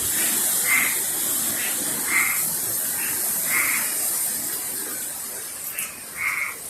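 Frogs calling in short, repeated croaks every second or two, over a steady hiss of hurricane wind.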